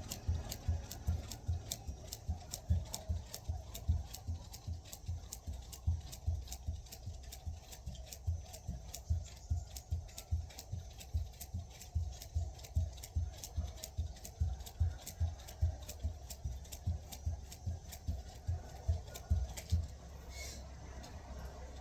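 Jump rope skipping: the rope slapping the ground with a sharp click and the feet landing with a low thud, about two a second in a steady rhythm, pausing briefly near the end.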